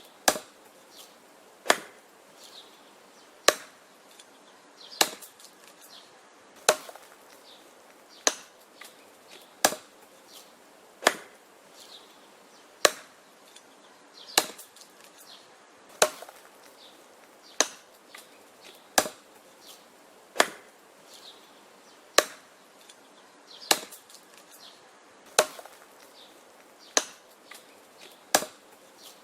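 Axe chopping wood in a steady rhythm: sharp strikes into the wood about every second and a half, with smaller knocks between them.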